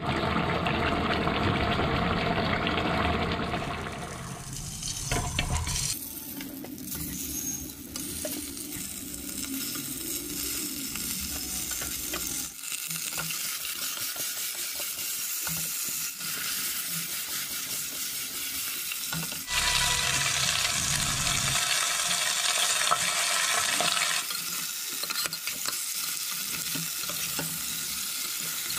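Fatty smoked pork sizzling in a hot pot while a spatula stirs through it. The sizzle changes abruptly several times.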